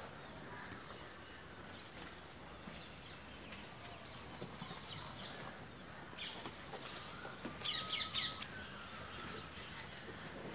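Birds chirping, with a quick burst of sharp, rapid chirps about eight seconds in.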